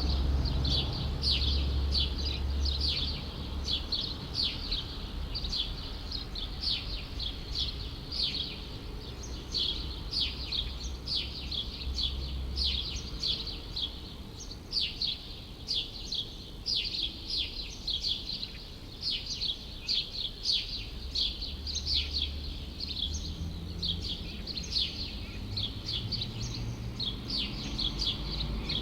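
Small birds chirping continuously in short, high, quickly falling notes, several a second. A low city rumble runs underneath, swelling at the start and again about two-thirds of the way in.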